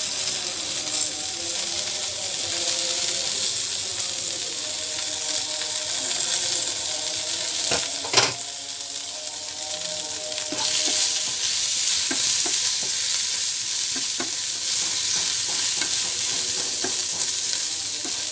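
Eggplant pieces sizzling steadily as they fry in mustard oil in a pan, with a wooden spatula stirring and scraping against the pan. There is one sharper knock about eight seconds in, and a few small taps later.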